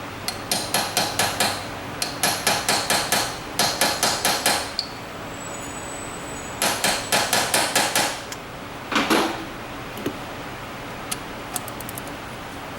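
Quick light taps of metal on metal, in four runs of about seven taps each, then one heavier knock about nine seconds in: a socket being tapped further onto a bolt head in a car's engine bay, using the ratchet as the hammer.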